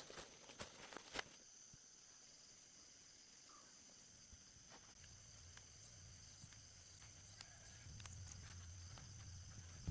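Faint outdoor ambience: a steady, high insect drone like crickets, with a few light clicks in the first second and a low rumble growing near the end.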